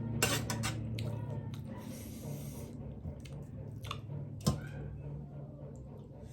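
Close-up eating sounds of a person eating crab with rice and gravy: chewing and squelching, with a few sharp clicks, the loudest about four and a half seconds in.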